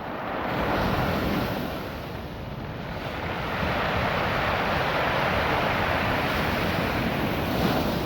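Surf washing up and back over a beach of small rounded cobbles, the stones rattling in the moving water. A wave surges about a second in, eases briefly, then a long steady wash follows.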